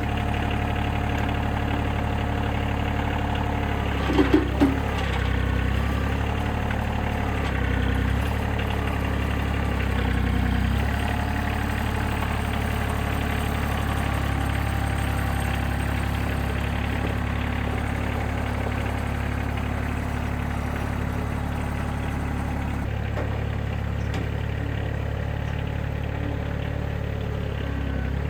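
Engine running steadily, with a few short, louder sounds about four seconds in and small shifts in pitch later on.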